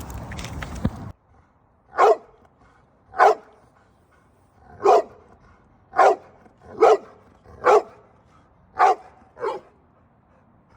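A Staffordshire bull terrier barking: eight short, sharp barks spaced about a second apart. Before them a steady rushing noise cuts off suddenly about a second in.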